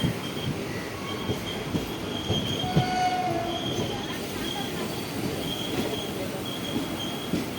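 Train running on the rails: a steady rumble with scattered knocks, and the wheels squealing in a thin high tone that comes and goes.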